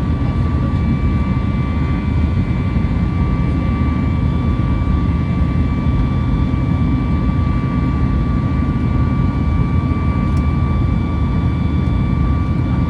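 Steady cabin noise inside a Boeing 737 MAX 8: the unbroken rumble of its CFM LEAP-1B jet engines and airflow, with a steady high whine riding over it.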